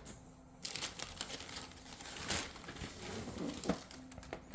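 Packaging crinkling and rustling as boxed model train cars are handled, with a few small clicks and knocks.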